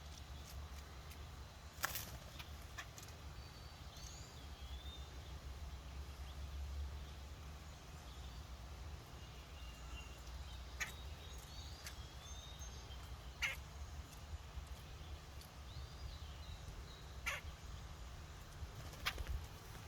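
Outdoor birdsong ambience with short chirps, and a woodpecker pecking in six sharp separate knocks spaced a few seconds apart. Under it there is a steady low rumble.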